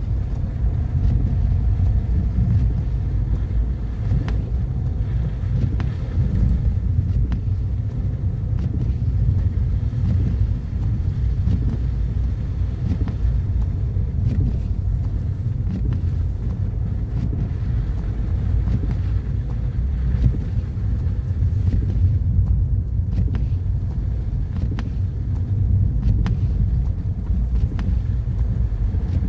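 Car driving along a road: a steady low rumble of engine and tyre noise, with a few faint scattered ticks.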